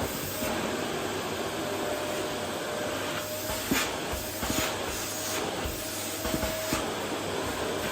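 Vacuum cleaner running steadily over a wooden floor: an even rushing hiss with a thin steady whine, and a few light knocks around the middle.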